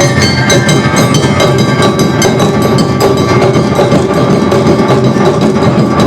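Awa odori festival music played live by a narimono band: a fast, steady stream of struck percussion from taiko drums and clanging kane hand gongs, with some held pitched notes above it.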